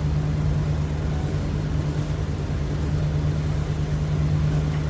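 Passenger train running: a steady low rumble with a constant hum.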